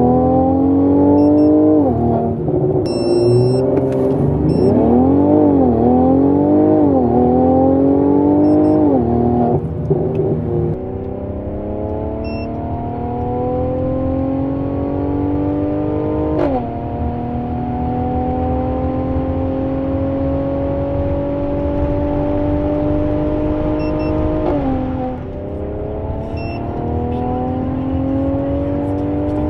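Mercedes C43 AMG engine under full-throttle acceleration, its pitch climbing through each gear and dropping sharply at each upshift. The climbs are quick at first and stretch out in the higher gears, with upshifts about 16 and 25 seconds in.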